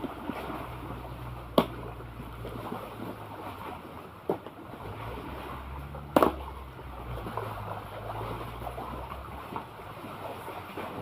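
Sea water and wind noise on the microphone at the shore, with three sharp knocks about 1.5, 4.3 and 6 seconds in, the last the loudest.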